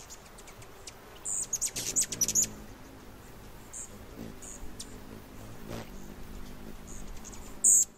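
Birds chirping: a quick run of short, high chirps about a second and a half in, a few single chirps later, and a loud chirp near the end.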